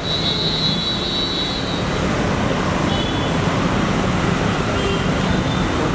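Jeep Wrangler SUV's engine running as it creeps slowly forward: steady low engine noise mixed with traffic noise.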